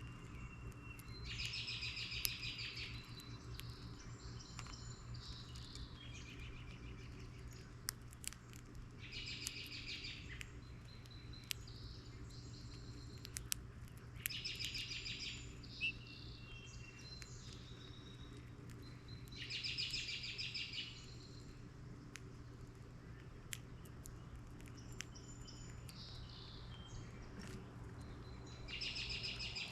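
A songbird at a feeder singing the same short harsh, trilled phrase over and over, about five times, a few seconds apart.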